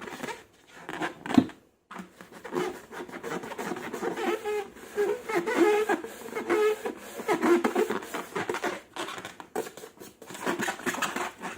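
Slime and long rubber balloons handled up close: rapid sticky clicks and crackles throughout, with a run of short rubbery squeaks in the middle.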